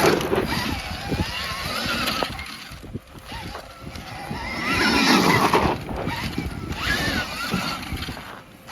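Motorcycle engines revving, rising and falling in pitch several times.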